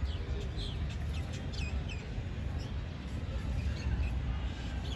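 Small birds chirping: a quick run of short, high chirps in the first couple of seconds and a few more later, over a steady low rumble.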